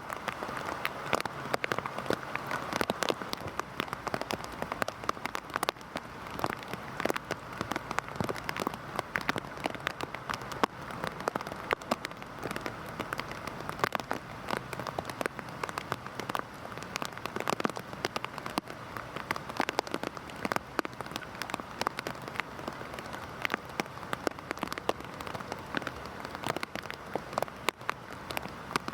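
Heavy rain falling steadily, with many individual drops pattering sharply on a nearby surface.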